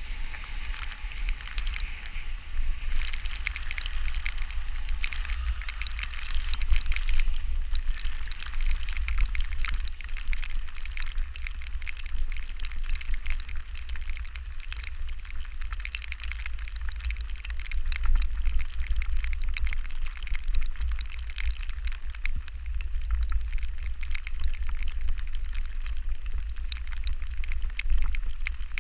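Steady rain, a dense crackle of drops pattering, with wind buffeting the microphone in a low rumble.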